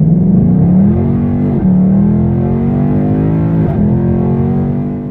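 Ford Mustang GT's 5.0-litre V8 accelerating hard, loud, its pitch climbing steadily. It shifts up twice, at about one and a half and three and a half seconds in, and climbs again after each shift.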